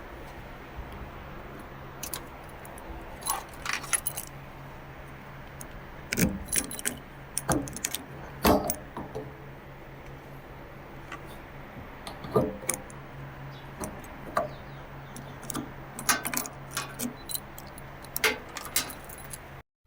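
Swaraj tractor engine running steadily at a low hum, with irregular metallic clinks and rattles over it, loudest around two, six to nine, twelve and sixteen to nineteen seconds in. The sound cuts off suddenly just before the end.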